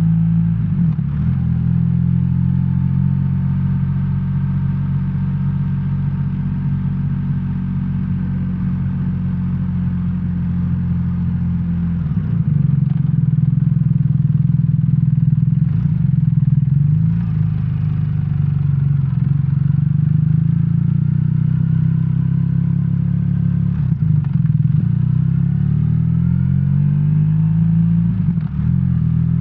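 BMW R1300R's boxer-twin engine running under way, its note changing several times with the throttle and getting louder about halfway through.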